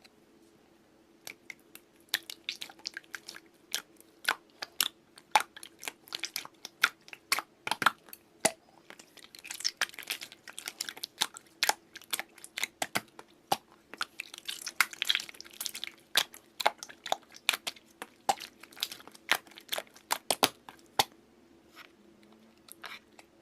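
Slime being squished and poked, making dense, irregular wet clicks and crackling pops over a faint steady hum.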